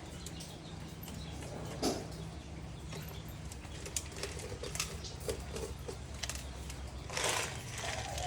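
Pigeons feeding: scattered short sharp pecks and taps, then a burst of wing flapping about seven seconds in. A steady low hum runs underneath.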